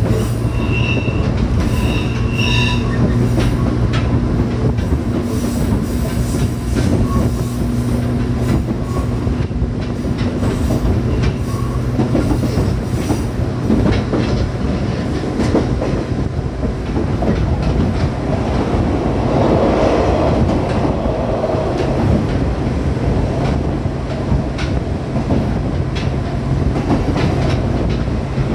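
A JR West 105 series resistor-controlled electric multiple unit running, with a steady low hum under the rumble and clatter of wheels on rail. A few brief high squeals come near the start.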